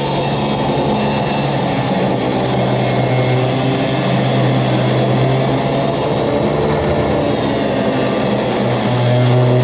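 A power tool running steadily at a constant pitch, cutting through the old steel leaf-spring hanger on the truck frame.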